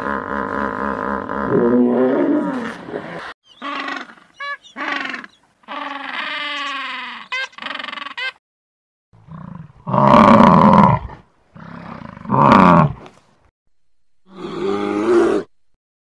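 A series of separate animal calls with short silent gaps between them: a hippopotamus's steady call that breaks into short pulses, then king penguins calling with trumpeting notes that glide up and down, then two loud roars about two-thirds of the way in.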